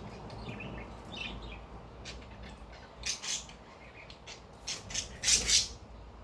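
Cockatiel giving short, harsh squawks: two about three seconds in, then a louder cluster near the end. Under them runs the steady noise of an electric fan.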